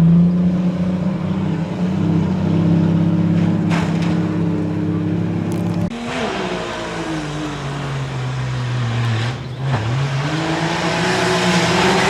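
Off-road competition truck's engine held at steady high revs, then abruptly letting off about halfway through. The pitch then sags lower, with a brief dip, and climbs again as it revs back up near the end.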